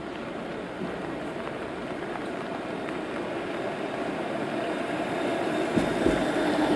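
A vehicle approaching on a wet city street, the hiss of its tyres and engine growing steadily louder, with a few low thuds near the end.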